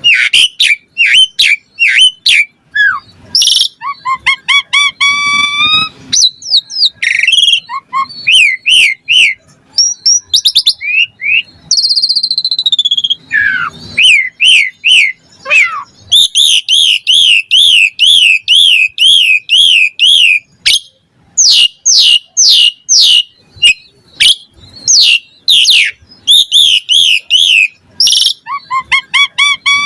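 Asian pied starling (jalak suren) singing a loud, varied song of sharp whistles, clicks and gliding notes, with a long run of quick rising-and-falling notes midway through.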